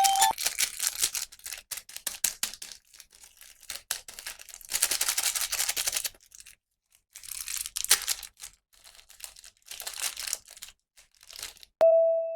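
Packaging being crinkled and torn open by hand in irregular bursts of rustling, with a brief pause about six seconds in. A chime tone sounds right at the end.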